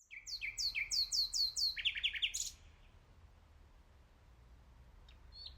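Nightingale singing: a phrase of rapidly repeated high, falling whistles, then a few quicker notes, stopping after about two and a half seconds. One short note near the end.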